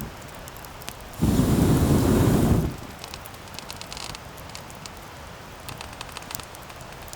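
Campfire burning with sharp crackles and pops. About a second in, a loud, low rushing noise lasts about a second and a half, then stops suddenly.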